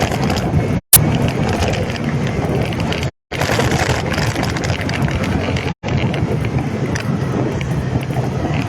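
Motorcycle engine running under way, with heavy wind noise on the microphone. The sound cuts out abruptly three times for a split second, about one, three and six seconds in, and there is a sharp click just after the first gap.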